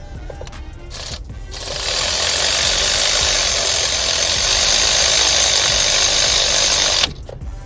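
Pneumatic air ratchet running with a loud, steady hiss of exhaust air for about five seconds after a short burst about a second in, then cutting off suddenly.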